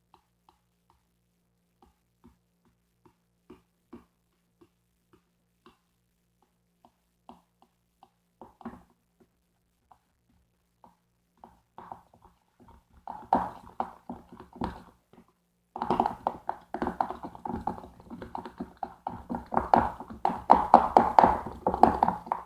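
Egg-white and detergent slime being stirred in its pot: sparse sticky clicks at first, then fast, dense clicking and squelching from about halfway through, loudest near the end.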